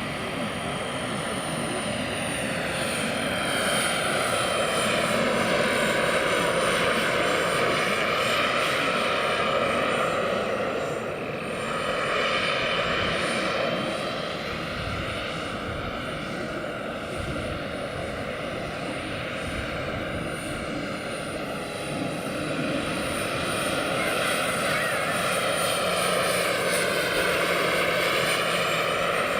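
Large turbine-powered model SA 315B Lama helicopter in flight: a steady high turbine whine over rotor noise, swelling louder twice as it passes nearer and fading in between.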